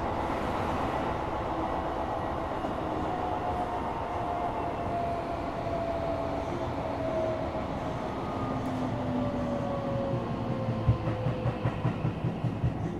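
Tokyo Metro 17000 series electric train running, heard from inside the car, its motor whine falling slowly in pitch as it slows. Over the last couple of seconds the wheels clack over rail joints about three times a second.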